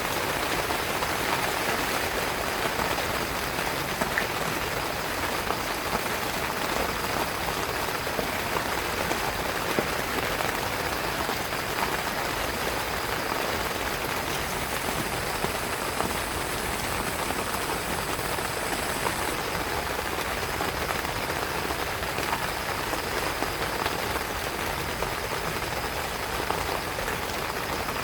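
Heavy rain falling steadily on a tent, a dense even hiss full of small drop ticks.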